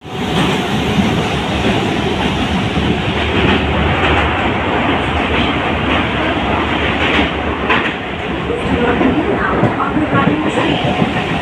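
Mumbai suburban local train running: a steady, loud rumble of wheels on the track, broken by several sharp clacks at rail joints.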